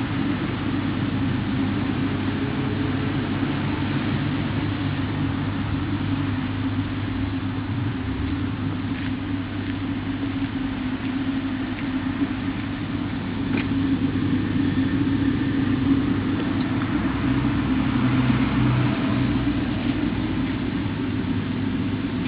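Steady low hum of an idling car engine, with a few faint clicks partway through.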